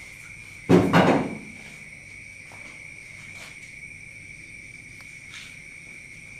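Steady high-pitched chirring of crickets or other insects, with a short, loud, noisy burst lasting about half a second about a second in.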